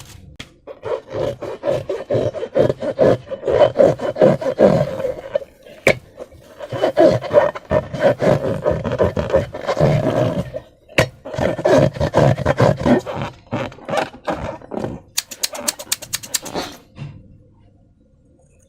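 Transparent rubber balloons holding slime being squeezed and rubbed by hand: a loud, rapid crackling rub that comes in three long bursts, followed by a quick run of sharp clicks.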